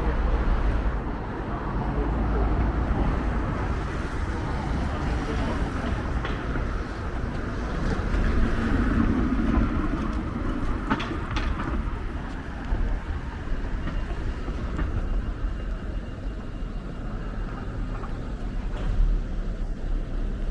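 Steady low rumble of outdoor city ambience, with a swell of passing-vehicle noise about eight to ten seconds in and a few faint clicks.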